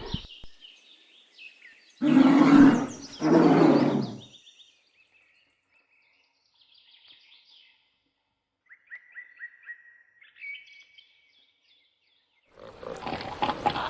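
A bear giving two loud, rough roars in a row, about two seconds in, followed by faint bird chirping.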